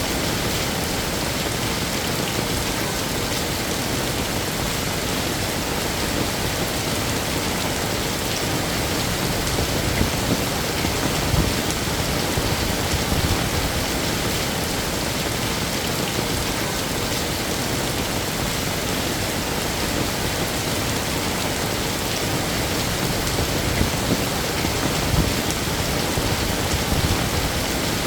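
Heavy rain falling steadily: a dense, even hiss of drops, with a few brief louder spikes partway through and again near the end.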